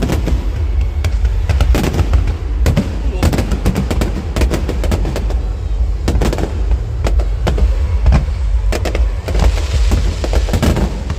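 Aerial fireworks display: a rapid, irregular string of bangs and crackles over a continuous deep rumble.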